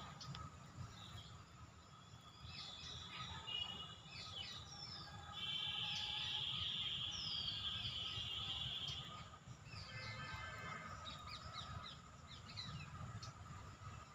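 Wild birds calling: scattered chirps and short whistles, and a long trill from about five to nine seconds in. A faint steady high tone and a low rumble sit beneath them.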